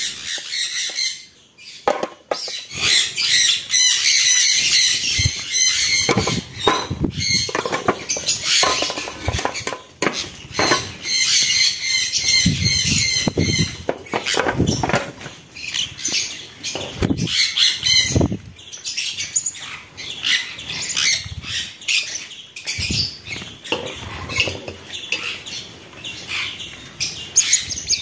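Aviary of pet birds chirping and squawking continuously, with short rustles and wing flaps in between.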